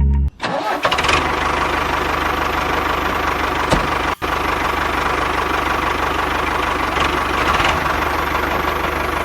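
A small engine or motor running steadily with a fast, even rhythm, cut off briefly just after four seconds in.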